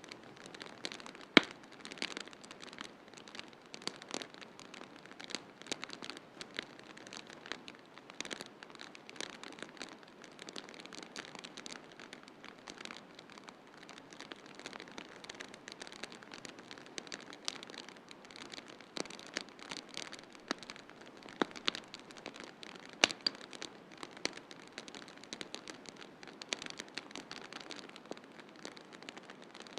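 Wood fire crackling, with frequent sharp pops over a steady hiss of snowstorm wind. Two pops stand out as the loudest, one about a second in and one about three-quarters of the way through.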